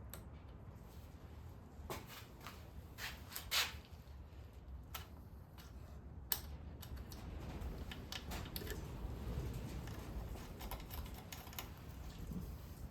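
Faint scattered clicks and light taps over a low steady hum, with two sharper clicks about three and a half and six seconds in.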